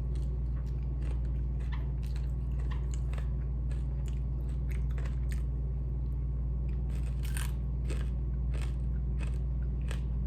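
Close-up chewing of crispy fried chicken feet, bones and all: irregular sharp crunches and smacks, over a steady low hum.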